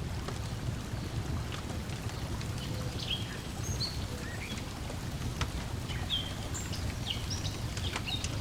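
Layered lakeside ambience: a wood fire crackling with scattered sharp pops, birds chirping in short repeated calls, over a low steady wash of lapping water.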